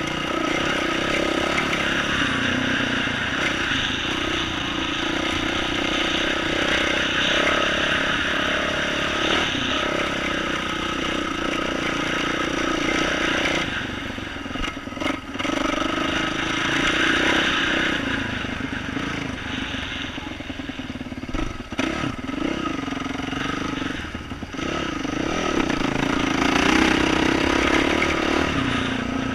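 2012 Yamaha YZ450F's single-cylinder four-stroke engine running through an aftermarket exhaust, its pitch rising and falling with the throttle. It eases off a few times around the middle, with a few knocks in between.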